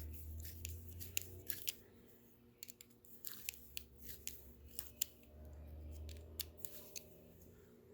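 Irregular sharp clicks and ticks of hand tools and hose-clamp and intake-coupler parts being worked by hand, over a low rumble that comes and goes twice.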